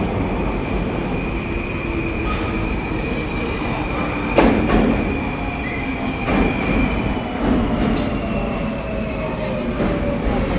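Saint Petersburg metro train running: a steady rumble with high whining tones from the wheels and motors, and a louder clank about four and a half seconds in.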